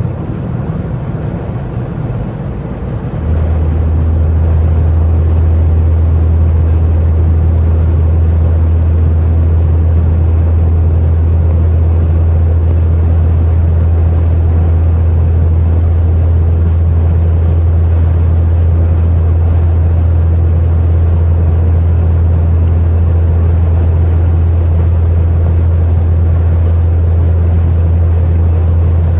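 Straight-piped Chrysler 300C V8 exhaust giving a deep, steady drone under way. It is lower for the first few seconds, then swells about three seconds in and holds at one level.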